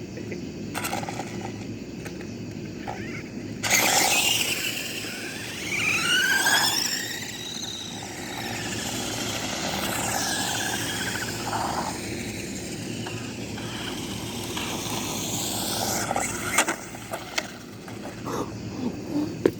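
Toy RC cars' small electric motors whining as they speed along the street, the pitch sweeping up and down as they accelerate and pass. A few sharp knocks near the end.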